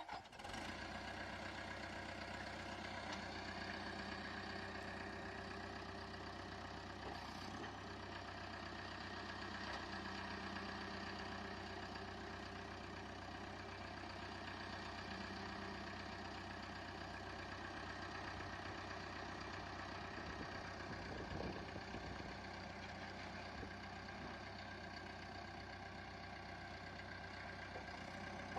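Caterpillar D3K LGP bulldozer's diesel engine running steadily at idle.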